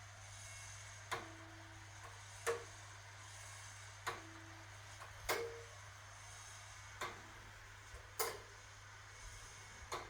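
1961 AEG Lavamat Noris washing machine running, with a knock or clack about every one to one and a half seconds over a steady low hum.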